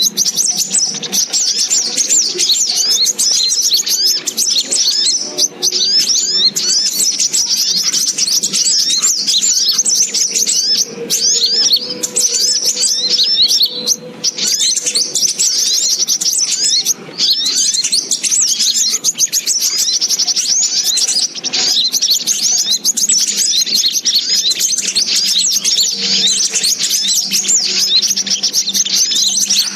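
Little spiderhunter (sogok ontong) calling: a rapid, unbroken stream of high, sharp chirps with only brief pauses. It is a lure-call recording used to draw the birds in for trapping.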